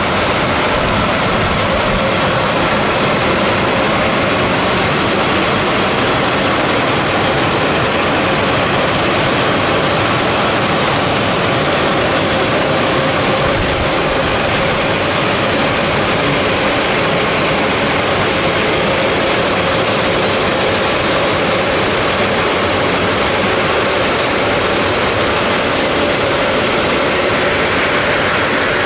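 Daifuku Fabrica automatic car wash machine running: a loud, steady rushing noise with a faint steady hum.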